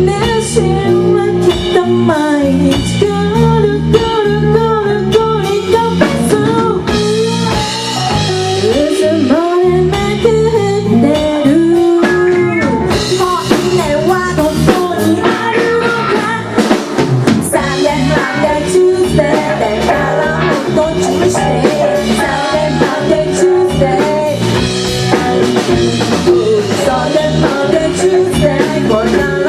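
Live rock band playing: drum kit and guitar with a singer's voice over them, loud and continuous.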